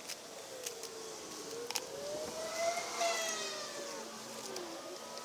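A siren wailing, its pitch slowly rising and falling and loudest about three seconds in, with scattered sharp clicks and crackles over it.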